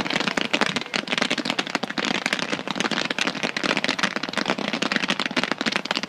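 Fireworks crackling: a dense, unbroken stream of rapid sharp pops and crackles.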